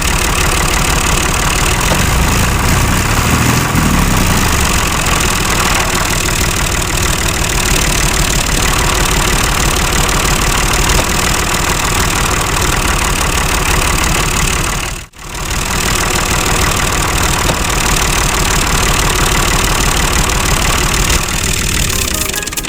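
A small engine running steadily at an even pace, with a brief break about fifteen seconds in.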